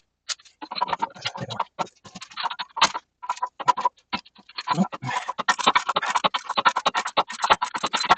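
Thin-head hand ratchet clicking as a fastener is turned, in quick runs of strokes with short pauses between.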